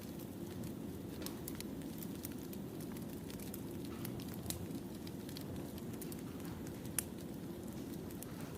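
Wood fire burning: a steady low rumble with scattered sharp crackles and pops from the firewood, one louder pop about seven seconds in.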